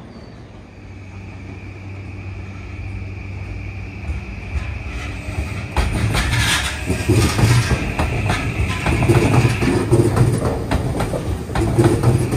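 A Tobu Railway electric train running through the station, its wheels clattering rhythmically over rail joints as it gets louder from about halfway in. A steady high-pitched whine sounds through most of it.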